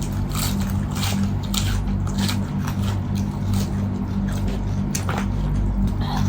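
Eating sounds: chewing and mouth clicks, short and irregular, over a steady low hum.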